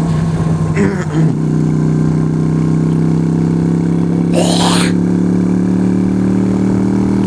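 Yamaha YBR125's single-cylinder four-stroke engine idling steadily while the motorcycle waits in traffic. A brief rushing noise about four and a half seconds in.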